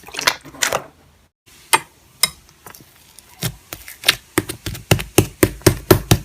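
Slime being pressed and worked by hand, giving sharp clicking pops: scattered at first, then a quick run of about five clicks a second in the second half.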